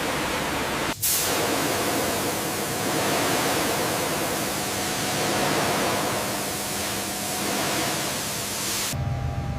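A steady, even rushing hiss, cut off for an instant about a second in, then running on until it stops near the end and gives way to a low hum.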